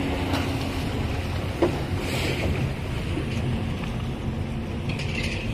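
Twin Yamaha 200 hp two-stroke outboard motors running steadily with a low drone as the speedboat is underway, with wind on the microphone and water rushing past the hull.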